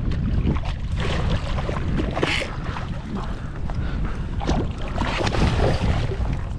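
Wind rumbling on the camera microphone, with water splashing and lapping against a small kayak.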